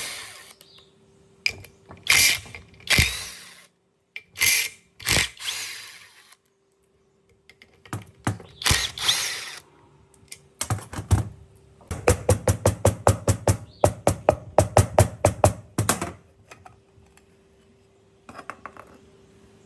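Workshop tool work on an air compressor: several short bursts of a power tool, then a fast, even run of strokes about five a second lasting some four seconds. A faint steady hum runs underneath.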